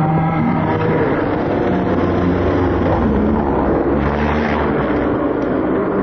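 Rally car engine running hard under load, its note holding and then shifting in steps.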